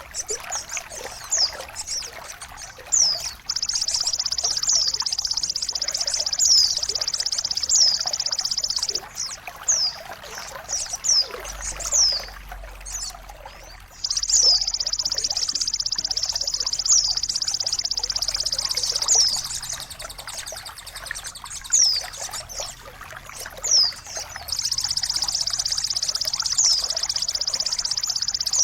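Running, trickling water with birds calling over it: repeated sharp chirps that sweep downward in pitch, and a high steady buzzing trill that runs for several seconds at a time, stops, and starts again about a third and four-fifths of the way through.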